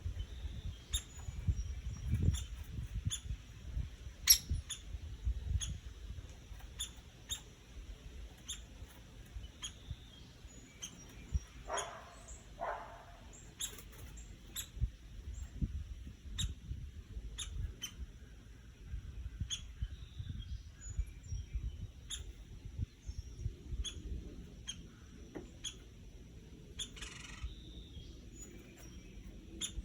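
Woodpecker pecking: sharp, irregular taps, roughly one or two a second, some in quick pairs.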